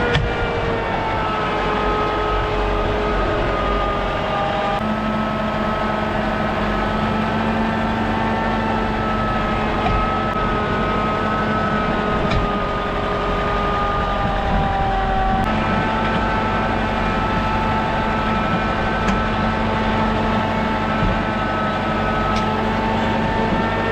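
A large engine running steadily under load, its pitch drifting slightly and shifting abruptly twice.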